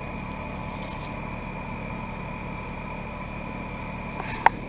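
Carrier Comfort heat pump outdoor unit running in cooling mode: a steady hum of compressor and condenser fan, with a steady high whine over it. A single sharp click comes near the end.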